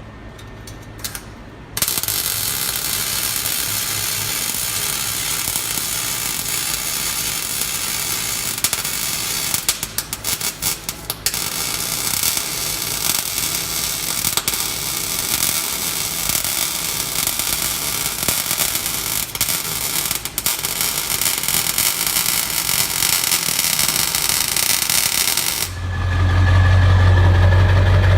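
A loud steady hiss of torch work on the exhaust, breaking up briefly about ten seconds in. Near the end the hiss stops abruptly and the truck's 7.3 Powerstroke turbo-diesel V8 idles with a deep steady note.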